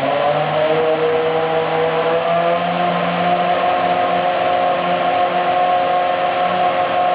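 Toyota Formula One engine running at a steady, high-pitched fast idle. Its pitch steps up slightly just after the start, then holds with small wavers.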